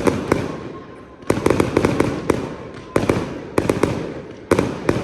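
Fireworks going off in quick volleys of sharp bangs, a group of several cracks about every second, each group dying away in a fading rumble.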